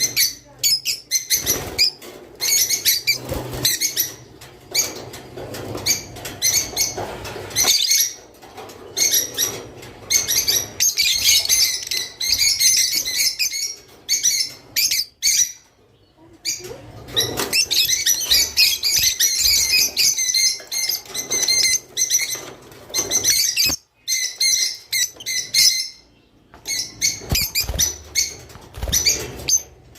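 A group of rosy-faced lovebirds chattering and chirping in fast, shrill runs, with a few short pauses.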